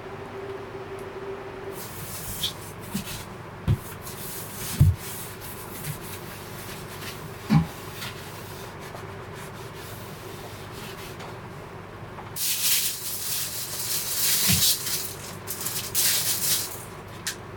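Rustling and rubbing of material close by, with a few dull knocks, over a steady hiss of rain. The rustling comes in short scratchy spells, with a longer stretch near the end.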